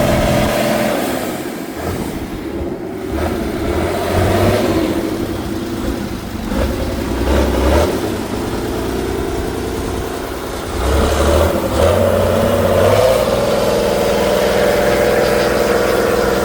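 A heavy off-road trial truck's engine running, its speed rising and falling with the throttle. It goes quieter for a stretch in the middle, then runs steadily louder again from about eleven seconds in.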